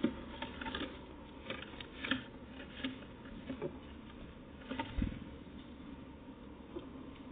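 Irregular light taps and clicks, one or two a second, with a duller knock about five seconds in.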